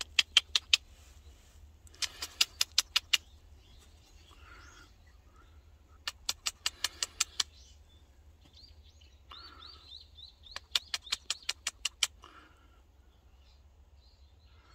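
A bird's harsh chattering call: bouts of sharp, rapid notes at about six a second, repeated four times. Fainter chirps from other birds come in between.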